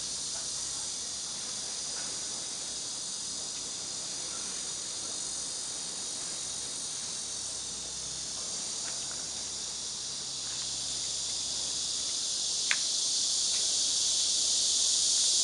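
Steady high-pitched hiss of background noise, growing gradually louder in the second half, with a single faint click near the end.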